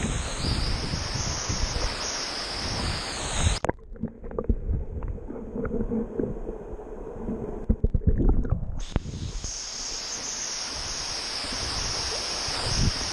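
Waterfall water rushing with a loud hiss. About four seconds in the sound turns suddenly muffled and low, with small knocks, for about five seconds, then the full rush returns.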